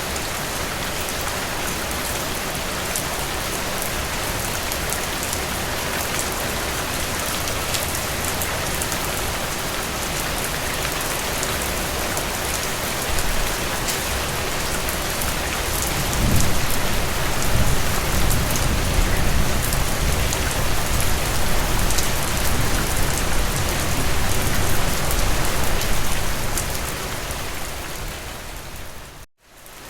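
Steady rain falling through forest trees. About halfway in a deep low rumble rises and holds for around ten seconds. Near the end the sound fades and cuts out briefly before coming back.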